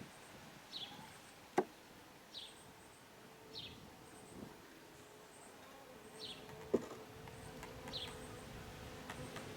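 Honey bees buzzing at the hive, a steady hum that grows stronger a few seconds in. Two sharp knocks break it, the louder one about a second and a half in and another near seven seconds.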